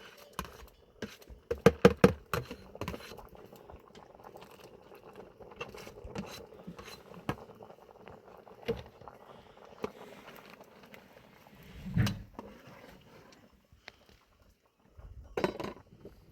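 Scattered clinks and knocks of objects being handled, with a quick run of sharp clatters about two seconds in and a heavier thump near twelve seconds.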